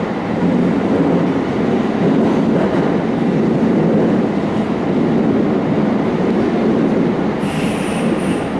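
Electric commuter train running, heard from inside the passenger car: a steady rumble of wheels on track. Near the end there is a brief high wheel squeal.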